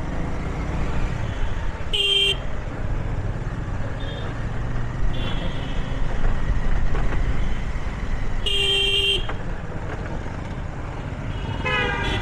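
City road traffic with vehicle horns honking over a steady low rumble of engines and wind: a short loud honk about two seconds in, a longer one past the middle, fainter honks between, and a warbling horn near the end.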